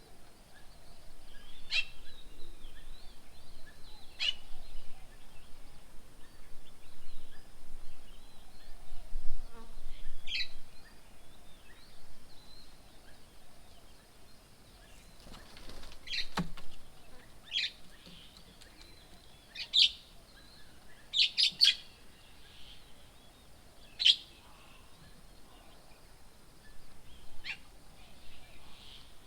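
Wild birds giving short, sharp calls every few seconds, with a quick run of three close together about three-quarters of the way through. Uneven background noise in the first part.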